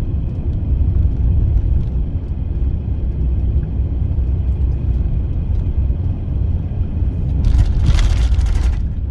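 A van's engine and tyre rumble heard from inside the cab while driving: a loud, steady, deep rumble. Near the end a louder rushing hiss swells for about a second and a half.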